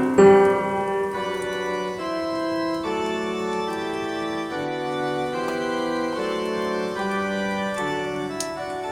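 Instrumental Christmas music on an organ: sustained held chords under a slow melody, with the notes changing about once a second.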